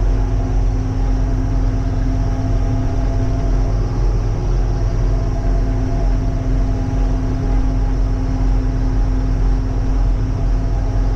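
Farm tractor's engine running steadily at road speed in road gear, a constant low drone with a fixed pitch.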